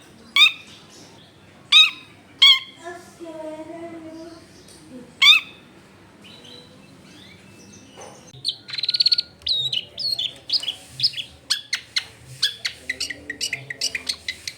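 Long-tailed shrike singing: a few loud, sharp descending calls spaced a second or more apart, then from about eight seconds in a fast run of short chattering notes and a brief buzzy trill.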